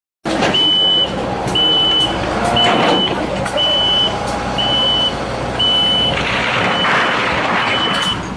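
Vehicle reversing alarm beeping, a single high tone about once a second, eight times, over the running engine and machinery noise.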